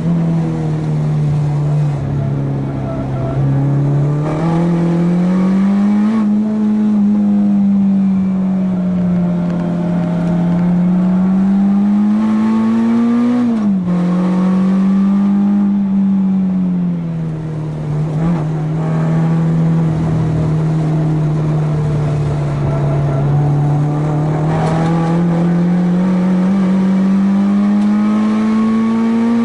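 Four-cylinder car engine driven hard on a race circuit. Its pitch climbs and falls smoothly with the revs through the corners, and about halfway through it drops sharply at a gear change.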